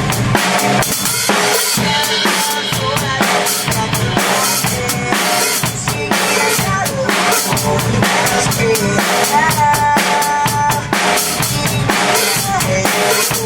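Drum kit played along with a rock song's recording: a steady beat of kick drum, snare and cymbals over the song's guitars and melody.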